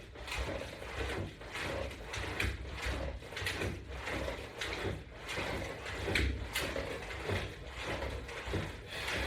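Exercise equipment clicking and creaking in a steady rhythm, about twice a second, as resistance band hardware works through repetitions.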